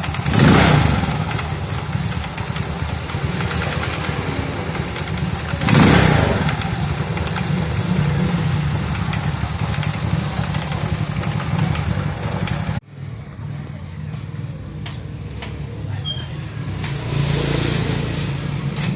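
A 110 cc motorcycle engine running, with two brief rises in revs. About two-thirds of the way through the sound drops abruptly, leaving quieter running with a few clicks.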